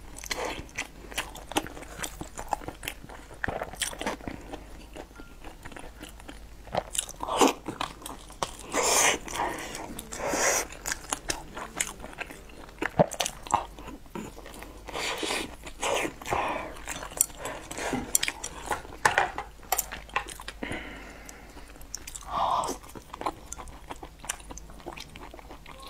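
A person biting into and chewing soft food with wet mouth noises: many short clicks and smacks, with a few louder bites scattered through.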